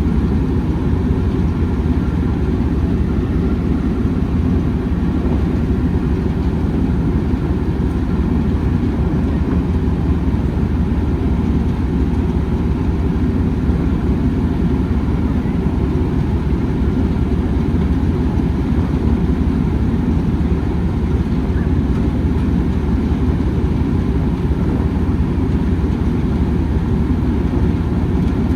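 Train running with a steady low rumble that does not break or change.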